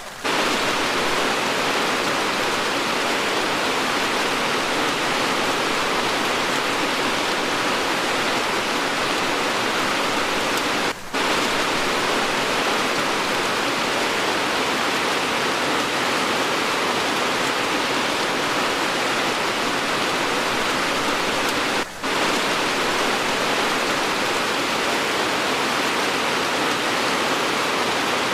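Steady, dense rain sound, an even hiss without pauses, dropping out for a split second twice, about a third and two thirds of the way through.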